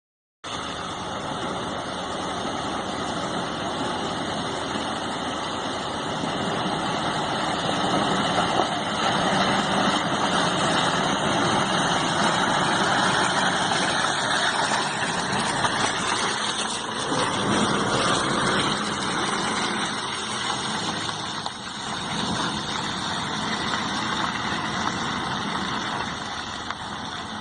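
Toyota SW4 SUV's engine running while driving off-road, a dense steady noise that grows louder through the middle stretch.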